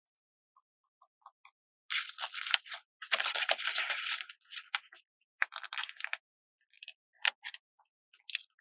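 Paper stickers being peeled from their backing sheet and handled: three crisp, crackling peels, the longest about three seconds in, with light clicks and taps between them.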